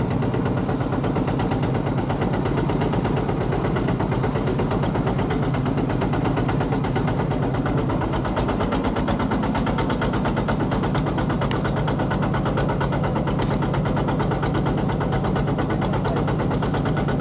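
E-Tak (Thai farm tractor) single-cylinder diesel engine chugging steadily while under way, in a rapid, even beat.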